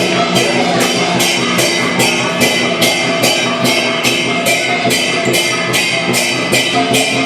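Lion dance percussion: a large drum and clashing cymbals played in a steady, driving rhythm, with cymbal crashes about two and a half times a second.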